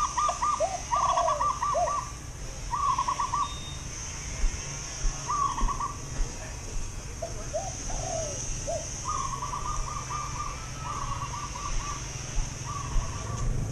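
Birds calling: repeated short bursts of quick, evenly spaced notes, with a few lower sliding notes in between, over a steady high-pitched hiss.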